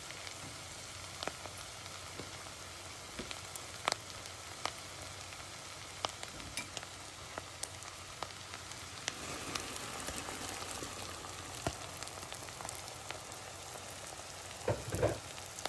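Chopped tomatoes frying in oil in a pot, a steady sizzle with scattered sharp pops and spits. Near the end there is a brief louder rush as dry bulgur is poured into the pan.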